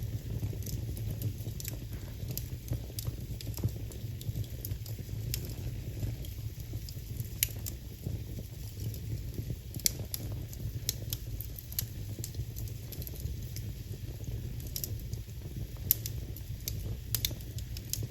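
Wood fire burning in a fireplace, crackling with many small pops and a few louder snaps, the loudest about ten seconds in and near the end, over a steady low rumble.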